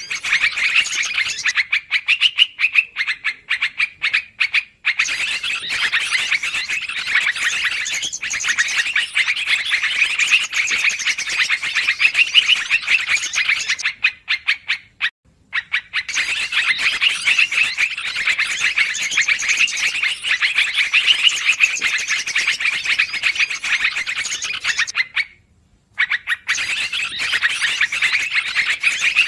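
Yellow-vented bulbul (trucukan) lure-call recording: busy, rapid chattering calls that break off briefly three times, roughly every ten seconds.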